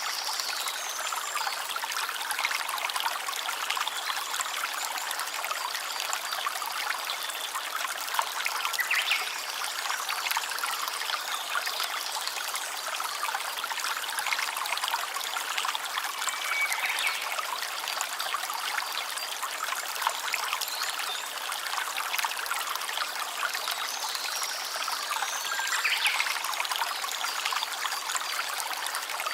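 Small stream trickling and babbling over stones, a steady rush of running water.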